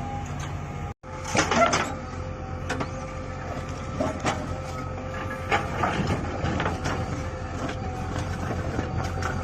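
Earth-moving machine's diesel engine running steadily under load with a thin steady whine, and irregular knocks and clanks of digging work. The sound drops out for an instant about a second in, and the loudest clatter follows just after.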